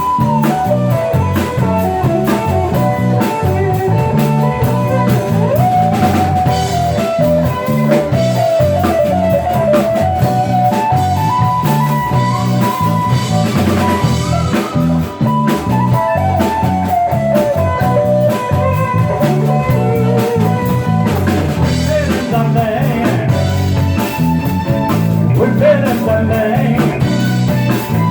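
Live band playing a blues-style number: drum kit and bass keep a steady beat under guitar, with a lead line that bends up and down in pitch.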